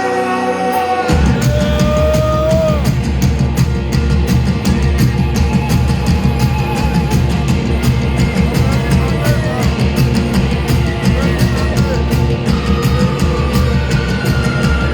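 Live rock band playing an instrumental passage. The full band, drums and bass included, comes in loudly about a second in, with a wavering melody line over a steady beat.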